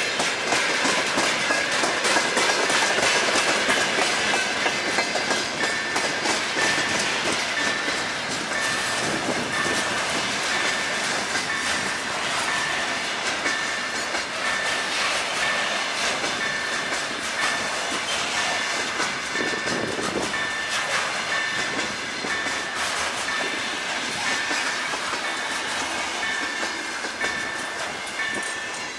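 Long freight train of tank cars and container wagons rolling past at speed, wheels clattering steadily over the rail joints. A level-crossing warning bell pings in an even, repeated beat through it. The clatter falls away near the end as the last wagon passes.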